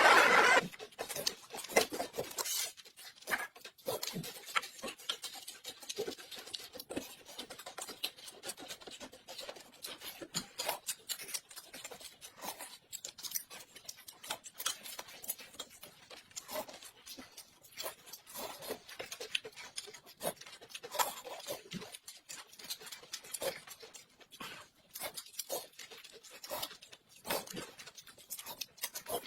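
Eating sounds: a steady, irregular run of small clicks and wet smacks from chewing, with utensils tapping now and then.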